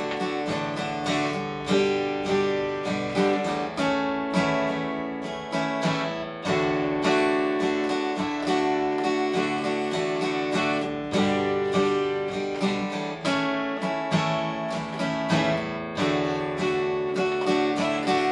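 Acoustic guitar strummed in a steady rhythm, with chords changing every second or two, and no singing.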